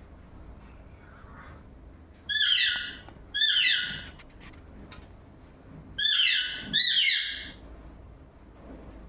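A bird giving four loud calls in two pairs, each call about two-thirds of a second long, with a brief upward slur at its start before it holds steady.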